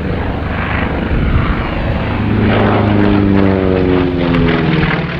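North American T-28B Trojan's Wright R-1820 nine-cylinder radial engine and propeller in a pass. It grows louder about two seconds in, then falls in pitch as it goes by.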